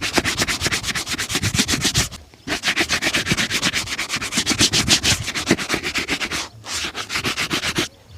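A shoe being rubbed during a shoe shine with fast back-and-forth strokes, several a second. The strokes come in three bursts, with short breaks about two seconds in and again about six and a half seconds in.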